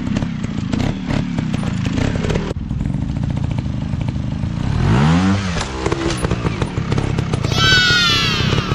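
Motorcycle engines running and revving. About halfway through, one engine's pitch rises and falls, and near the end a high-pitched engine whine drops in pitch.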